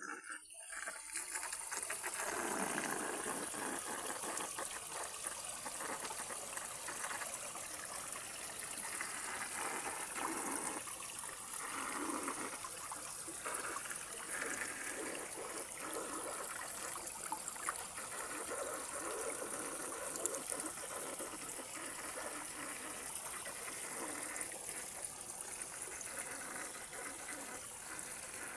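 Running water in a natural stream, trickling and gushing steadily with a constant rushing splash.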